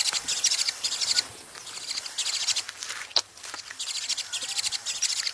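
Nestling begging calls from a cuckoo chick in a drongo's nest: fast, high, rattling trains of chirps in several bursts with short pauses between them.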